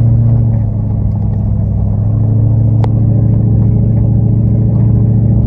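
Dodge Ram pickup's engine pulling steadily as the truck climbs a steep dirt trail, a low steady drone. A single sharp click about halfway through.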